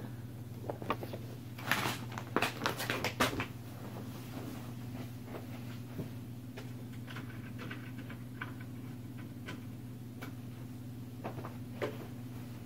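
Objects being handled, with a quick run of rustles and clicks in the first few seconds, then scattered light clicks, all over a steady low electrical-sounding hum.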